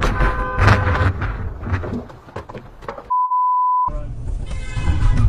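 A loud, noisy stretch with several sharp knocks, then about three seconds in a pure, steady beep of under a second with all other sound cut out: a censor bleep over a spoken word.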